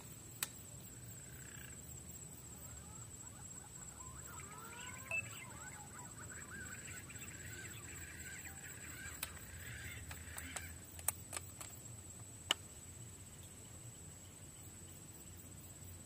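Faint bird calls in the forest canopy, a tangle of short whistled glides from about four seconds in until about ten and a half seconds. A few sharp clicks come near the end.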